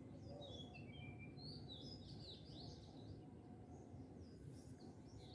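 Faint birds chirping in the background over a low steady room rumble, with a short run of descending notes about half a second in.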